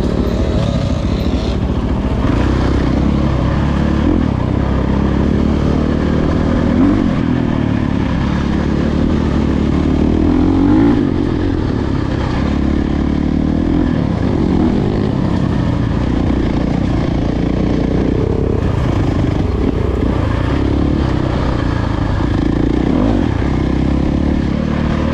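Dirt bike engine running under way on a trail ride, its pitch rising and falling as the throttle is worked.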